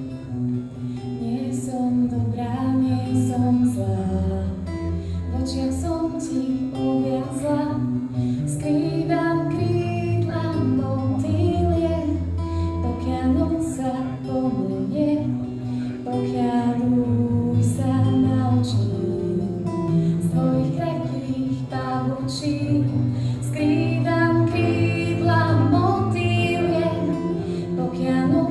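Live song: a woman singing a slow melody over acoustic guitar and a bass line that steps between held notes.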